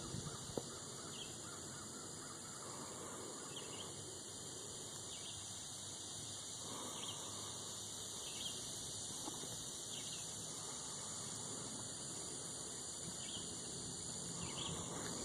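Faint outdoor background: a steady hiss with short high chirps every second or two from distant birds.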